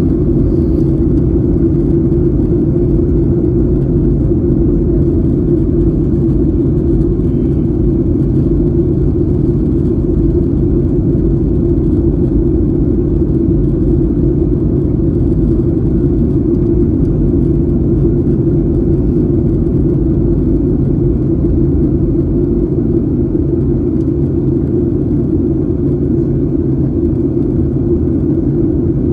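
Airliner cabin noise: a steady, unchanging low rumble of the jet engines and airflow.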